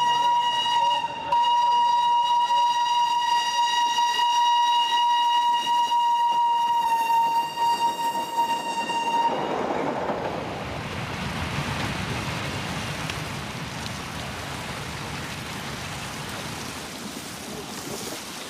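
Darjeeling Himalayan Railway toy train's whistle held as one long high steady note, breaking briefly about a second in and stopping about nine seconds in. The whistle gives way to the rushing, rattling noise of the train running past, which slowly fades.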